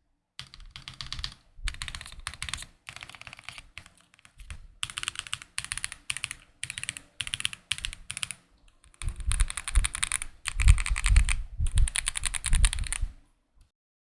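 Typing on a GMK67 gasket-mounted mechanical keyboard fitted with Akko Cream Blue Pro V3 tactile switches and cherry-profile keycaps: rapid key clacks in bursts with short pauses. The typing turns heavier and deeper for the last few seconds and stops about a second before the end.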